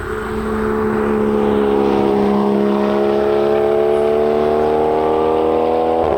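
Porsche 981 Cayman's flat-six engine through a SOUL Performance valveless exhaust, accelerating under load. Its note climbs steadily in pitch, then drops sharply with an upshift near the end.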